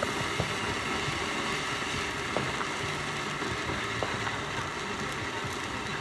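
Firework fountain hissing steadily as it sprays sparks, with a few faint pops.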